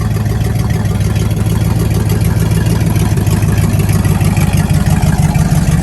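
Car engine idling steadily and loudly, with a fast even beat of firing pulses; it grows a little louder toward the end.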